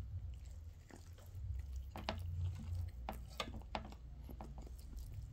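A person chewing a soft sandwich close to the microphone: a scatter of short, moist mouth clicks and smacks. A low steady rumble runs underneath.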